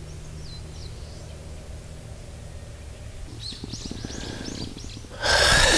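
A songbird calling outdoors: a faint call near the start, then a quick run of about eight short, falling chirps around the middle, over a steady low rumble. Near the end a sudden loud rush of noise cuts in.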